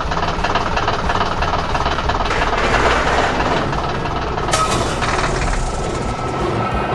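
Heavy construction machines running, a steady engine rumble with dense mechanical clatter, and a sharper burst of noise about four and a half seconds in.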